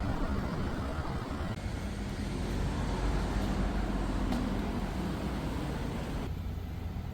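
Road traffic noise: a steady low rumble of motor vehicles running.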